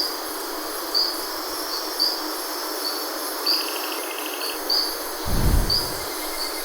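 Forest ambience: a bird gives short, high chirps about once a second over a steady hiss, with a brief fast insect-like trill a little past the middle and a short low rumble about five seconds in.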